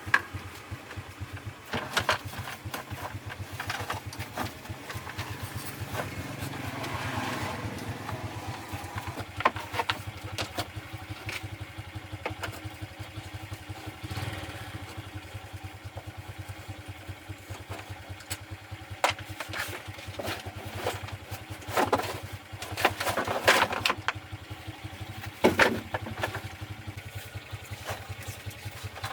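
An engine running steadily, with sharp metallic clanks and knocks every few seconds.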